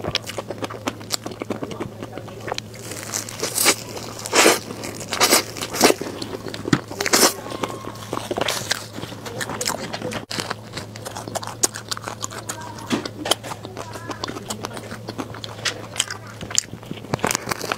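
Close-miked eating: wet chewing and mouth sounds from a mouthful of cream cake, with a run of loud crisp crunches about four to seven seconds in and smaller clicks and smacks the rest of the time. A faint steady low hum sits underneath.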